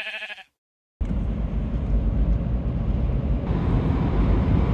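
Steady rumbling road and engine noise of a car driving, starting abruptly about a second in.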